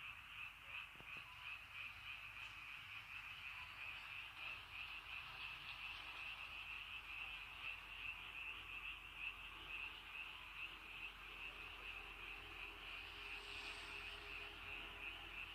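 A chorus of many frogs calling together, a dense, rapidly pulsing trill that never lets up.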